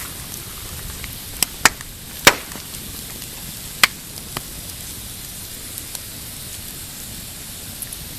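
Pine campfire crackling, with a few sharp pops in the first half, the loudest about two seconds in, over a steady hiss.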